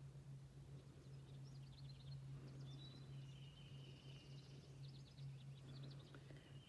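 Faint birdsong: scattered short chirps and quick trills from songbirds, over a steady low hum.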